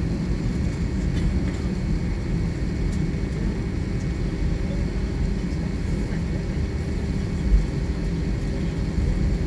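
Airliner cabin noise: a steady low rumble of the jet's engines and airflow heard from inside the cabin, with a faint steady hum. A single low thump comes about three-quarters of the way through.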